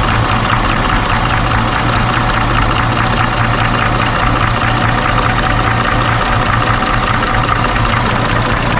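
1963 Chevy truck's straight-six engine idling steadily, with a fast ticking from the valve train as the valve lash is set with the engine running.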